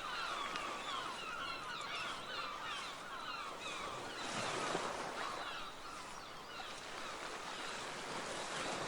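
A flock of gulls calling together, many short falling calls overlapping, over a steady background wash of surf.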